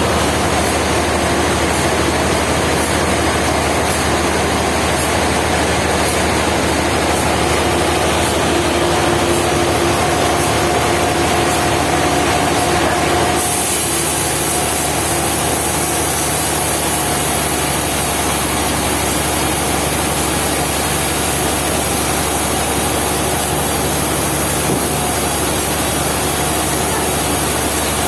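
Sawmill machinery running steadily. About halfway through, the sound changes abruptly and a high hiss comes in.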